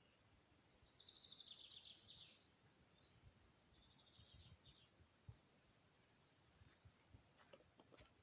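Faint birdsong: a high, rapid trill about a second in, followed by scattered high chirps.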